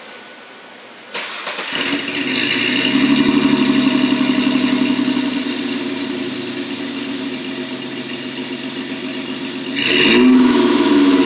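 1998 Ford Explorer's 4.0 SOHC V6 starting about a second in, running through a single 2.5-inch exhaust with a Nexus muffler. It catches and runs fast for a moment, settles to a steady idle, then is revved up near the end.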